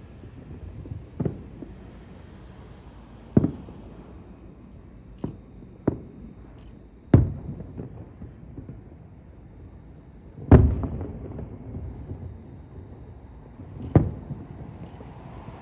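Fireworks shells bursting in the sky: about seven sharp booms at uneven intervals, each trailing off briefly, the loudest two about midway through.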